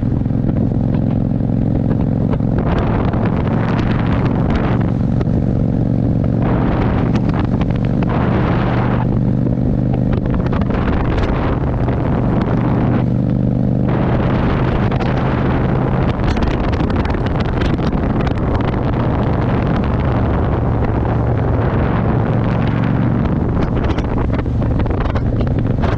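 Motorcycle engine running steadily under way, with wind rushing over the microphone in surges that grow heavier from about halfway on.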